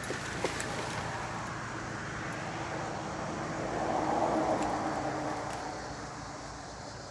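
A passing vehicle is heard as a steady rush that swells to a peak about four seconds in and then fades.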